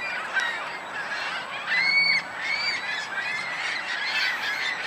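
A flock of seagulls calling all at once, many short overlapping squealing cries.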